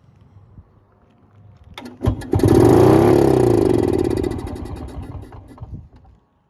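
A 1957 TWN Cornet motorcycle engine starts from cold, catching about two seconds in. Its speed rises and then falls, and after about four seconds of running it dies away and stalls.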